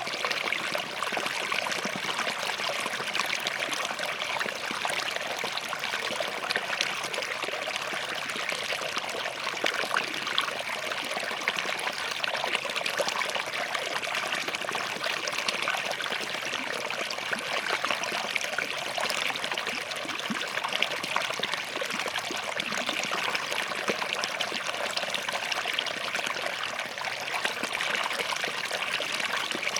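Small forest stream flowing and trickling over rocks, a steady splashing hiss with many small droplet plinks.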